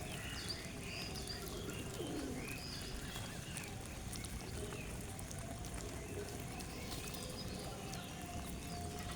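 Birds calling at a feeding spot: many short chirps, thickest in the first few seconds and thinning out, with a low coo about two seconds in, over a steady low rumble.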